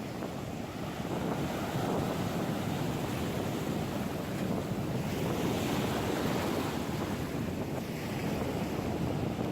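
Ocean surf breaking and washing on a beach, with a wave swelling up about halfway through, under wind buffeting the microphone.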